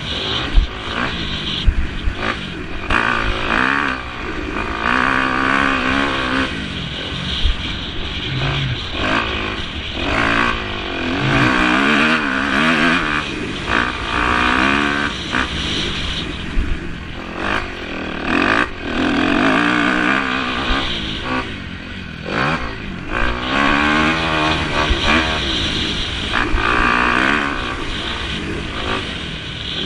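Several motocross bikes racing, their engines revving up and down in overlapping waves as riders accelerate and back off, growing louder and fading as they pass.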